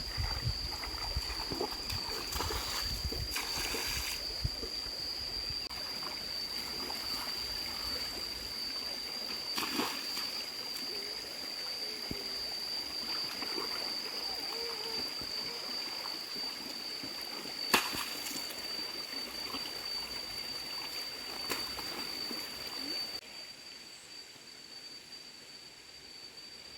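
Water splashing and trickling, as in a stream, under a steady high-pitched tone, with a few sharp clicks, one of them loud about two-thirds of the way through. The sound drops in level near the end.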